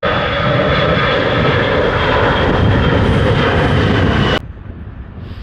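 Jet airliner engines running loud, a broad rush with a steady high whine over it. It cuts off abruptly about four seconds in.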